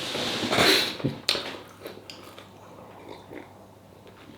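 Close mouth and breathing noises from a person eating, loudest in the first second, followed by a sharp click about a second in and then a few faint small clicks.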